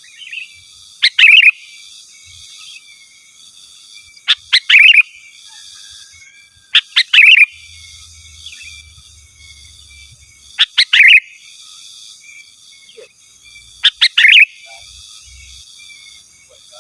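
Sooty-headed bulbul (kutilang) singing vigorously: five loud short phrases of quick notes, about one every three seconds, over a steady high background hiss.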